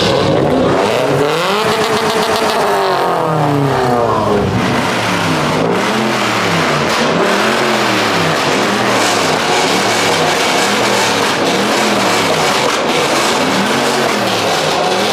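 A car engine being revved: one long rev that climbs for about two seconds and falls back, then a string of quick, evenly spaced revs a little over a second apart.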